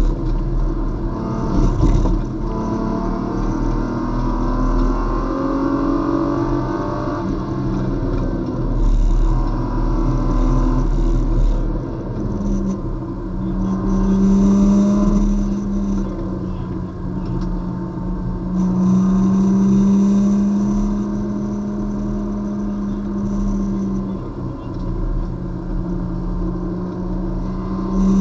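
Race car engine heard from inside the cockpit, its revs falling under hard braking and then climbing and holding under full throttle through the following corners, with road and wind noise underneath.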